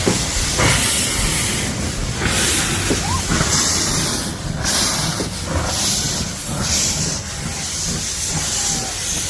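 Steam locomotive chuffing slowly, its steam exhaust coming in loud hissing bursts about once a second.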